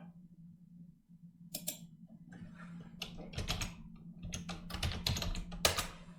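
Typing on a computer keyboard: an irregular run of key clicks that starts about a second and a half in, over a low steady hum.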